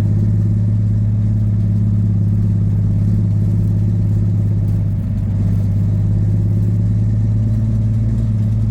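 Peterbilt semi truck's Cummins diesel engine running at a steady pitch as the truck is driven, with a brief dip in level about five seconds in. After three months without being started, it sounds pretty good.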